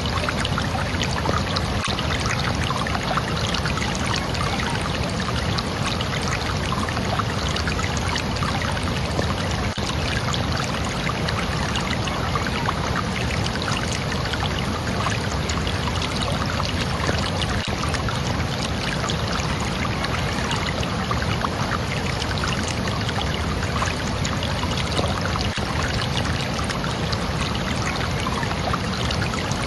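Running water, flowing and splashing steadily, like a stream or small cascade.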